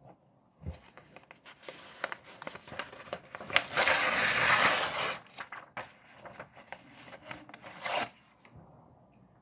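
Paper being handled and scratched against a tabletop: a run of small clicks and rustles, with a loud scratchy stretch about four seconds in that lasts around a second and a half, and a shorter one near the end.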